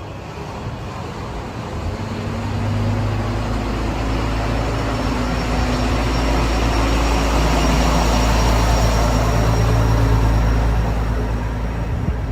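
Nagara River Railway diesel railcar running, a steady low engine drone with a deeper hum that grows louder over the first few seconds, is strongest a little past the middle and eases slightly near the end.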